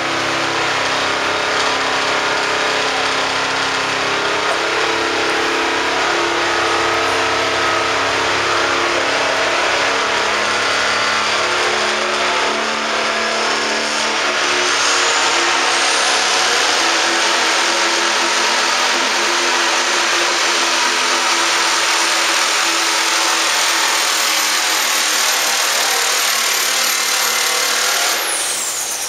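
Pro stock diesel pulling truck running hard under load. Its turbocharger whistle climbs about halfway through, holds high, then falls away sharply near the end.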